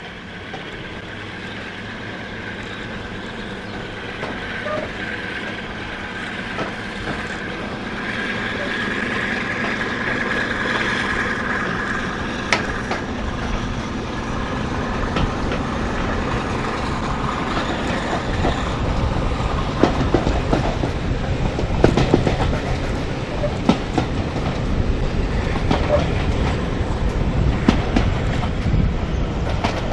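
Train running and gathering speed, growing steadily louder, with the clicks of wheels over rail joints coming more often and more strongly in the second half.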